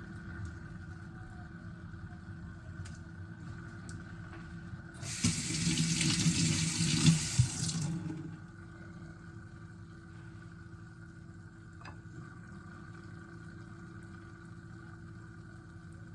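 Kitchen tap turned on and running into the sink for about three seconds, with a few knocks of things in the sink, over a faint steady hum.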